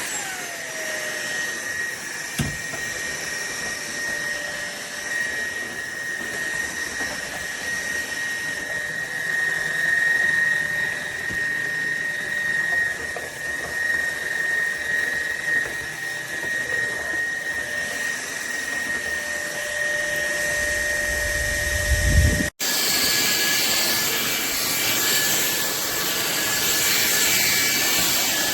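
Cordless stick vacuum cleaner running with a steady high whine and hiss; right at the start its motor pitch falls as it drops in speed. About two-thirds of the way through the sound breaks off for an instant and comes back with a brighter hiss.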